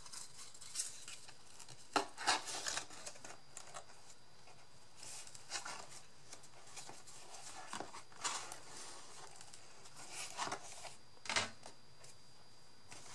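Paper and card being handled during craft work: scattered rustles and light clicks, a few a second apart, with a sharper one near the end.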